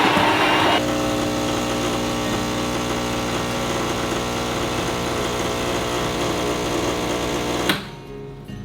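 A small electric motor starts with a loud, rough grinding for under a second, then runs steadily with an even hum for about seven seconds and stops with a click near the end.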